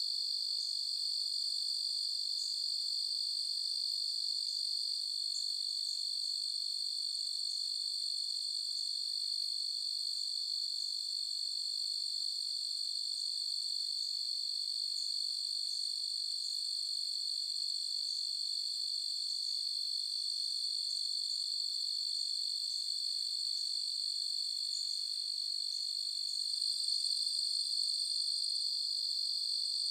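Night chorus of crickets: a steady, unbroken high-pitched trilling, growing a little louder near the end.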